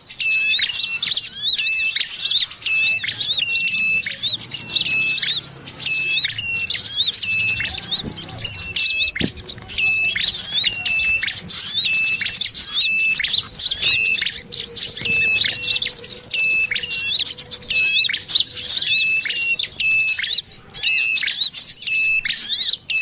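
Looped bird-lure recording of small songbirds: continuous dense high chattering and chirping, with a short clear note repeating about every 0.8 seconds. It is a mix of sogon chatter with red-headed prenjak and brown-throated sunbird calls.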